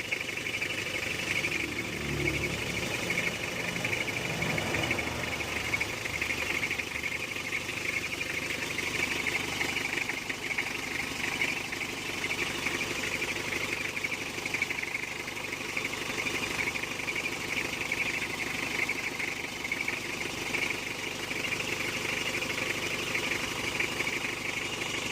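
Mitsubishi L300's engine idling steadily, with a steady high-pitched hiss over it.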